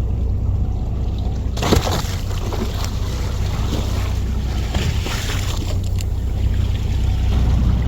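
A 10-ton fishing boat's engine runs with a steady low drone. From about a second and a half in, water rushes and splashes along the hull for a few seconds.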